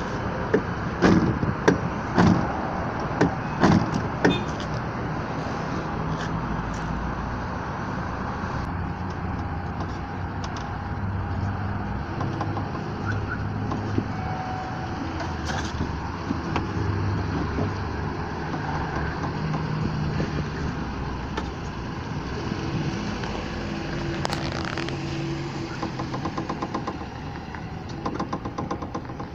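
Power window regulator in a frameless car door moving the glass in stretches of a few seconds, its motor humming. Several sharp knocks come in the first few seconds: play in the regulator slide, whose plastic bushings are worn.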